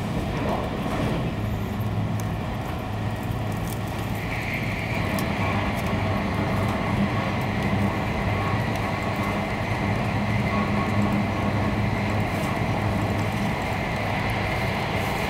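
Cabin noise inside an E2-series Shinkansen running at speed: a steady rumble with a low hum, and a high steady tone joining about four seconds in.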